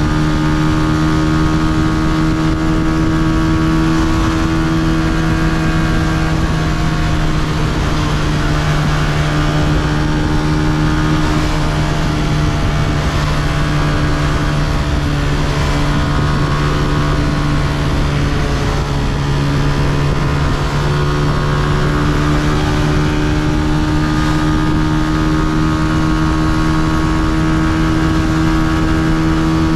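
Honda CG125's single-cylinder four-stroke engine running at a steady pace under way, its note holding nearly constant.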